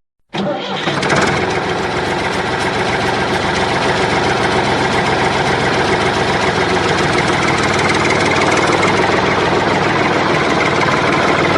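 A motor or engine running steadily with a dense, rattling mechanical tone. It cuts in abruptly just after the start and holds at an even level until it stops at the end.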